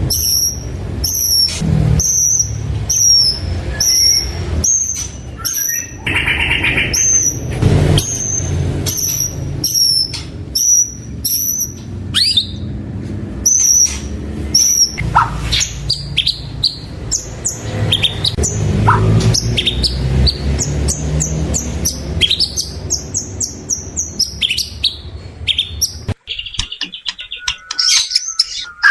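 White-rumped shama (murai batu) singing: first a long run of repeated high, falling notes, about three every two seconds, then varied whistled phrases with rising and falling sweeps. A steady low rumble runs underneath and cuts off suddenly near the end.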